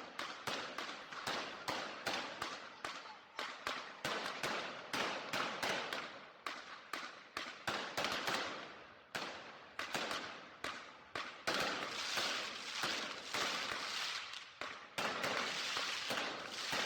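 Fireworks going off in a rapid, irregular series of sharp bangs, several a second, each with a short echoing tail. From about twelve seconds in, the bangs blur into a denser, continuous crackle.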